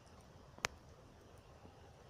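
A single sharp click about two-thirds of a second in, over a faint steady background.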